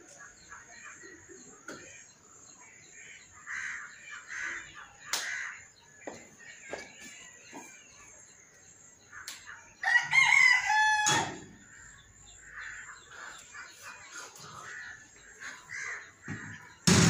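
A loud bird call, once, about ten seconds in: a rising cry held for about a second, amid faint clicks and rustles.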